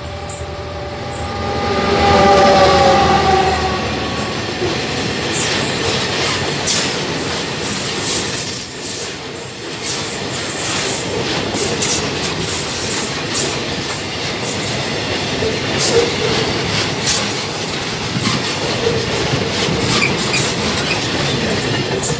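A diesel locomotive passes close by, its engine note dropping in pitch as it goes by in the first few seconds. A long string of tank wagons follows, with steady rumble and clatter of wheels over the rail joints and a brief high wheel squeal on the curve.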